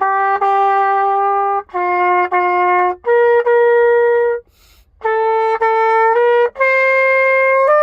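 Solo trumpet playing a slow melody of held notes, one note at a time, with a breath pause about four and a half seconds in before the phrase resumes.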